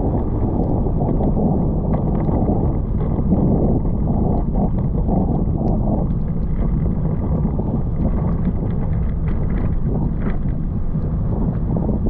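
Wind buffeting the microphone while cycling in the rain: a loud, steady low rumble.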